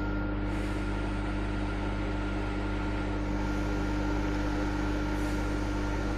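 Steady hum of a workshop machine's electric motor running, with a constant tone and no change in speed.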